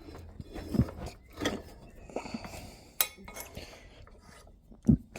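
Metal tools and parts being handled on a workbench: a few scattered metallic clinks and knocks.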